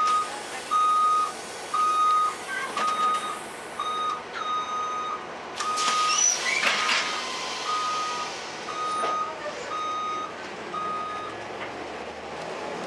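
Reversing alarm of a 2002 Blue Bird CS transit bus beeping steadily, a single tone a little faster than once a second, stopping near the end. A brief squeal and hiss cut in about six to seven seconds in.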